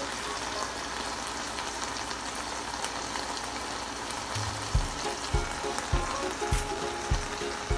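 Ahi tuna steak sizzling as it fries in a pan of hot oil and marinade, a steady crackling hiss. About halfway through, background music with a steady low beat comes in over it.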